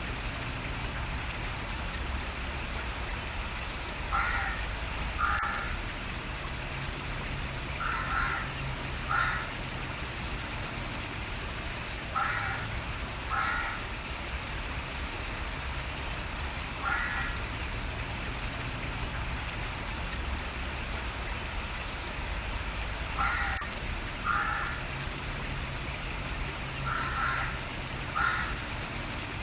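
A bird calling in short calls, mostly in pairs about a second apart, repeating every four seconds or so, over the steady hiss of running water.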